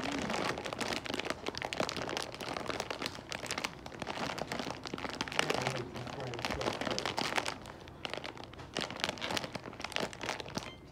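Close-up chewing of loaded crinkle-cut fries with cheese: rapid, continuous crunching and wet mouth sounds.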